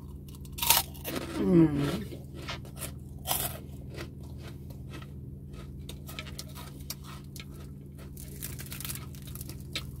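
Close-miked chewing and crunching of crispy pata (deep-fried pork leg) skin, with loud crackly bites near the start and a brief hum about a second and a half in. Near the end the crisp pork leg is torn apart by hand with a crackling tear.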